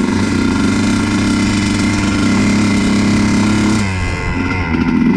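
Honda CR125's 125 cc single-cylinder two-stroke engine running at steady revs on the move. About four seconds in the revs drop off, then the engine picks back up near the end.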